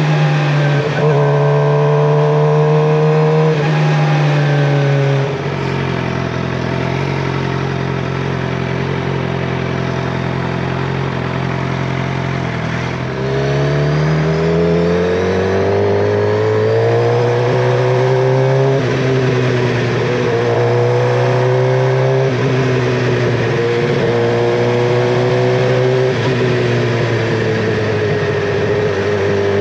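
Suzuki GSX-R750's inline-four engine under way, its note climbing under throttle, falling back about five seconds in, then climbing again from about thirteen seconds and holding with small rises and dips.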